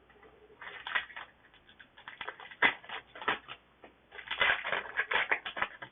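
Foil trading-card booster pack wrapper crinkling and crackling as it is handled and torn open, in three irregular bouts.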